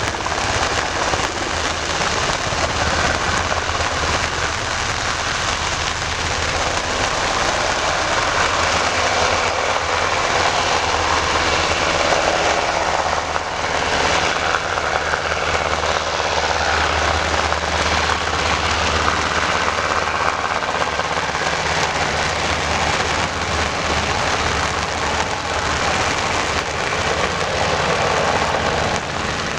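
Steady rain falling, with a low hum of an engine running underneath.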